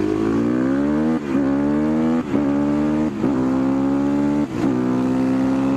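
Husqvarna 510SM single-cylinder supermoto engine accelerating hard up through the gears: the engine note climbs, drops sharply at four upshifts, and climbs again after each.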